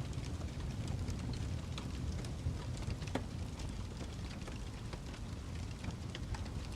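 Fireplace crackling: irregular small pops and snaps, a few a second, over a steady low rumble, with one sharper pop about three seconds in.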